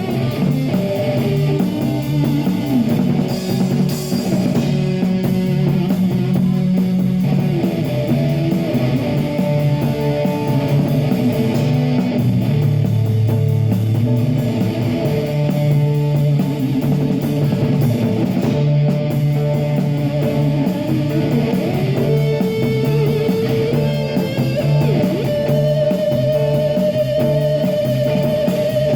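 Live rock band playing an instrumental passage: electric guitar lines over bass and drum kit, with no singing.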